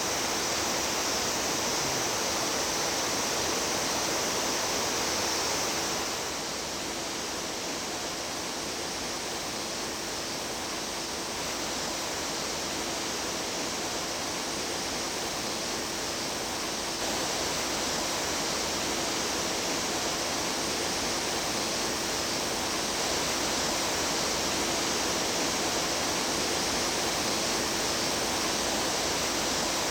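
Mountain stream water rushing and splashing over rocks, a steady rush whose tone shifts slightly about six seconds in and again near seventeen seconds.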